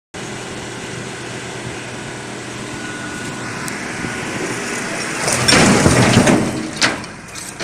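Steady vehicle running and road noise that slowly gets louder, then a loud, noisy burst about five and a half seconds in and a sharp bang about a second later, typical of a car collision.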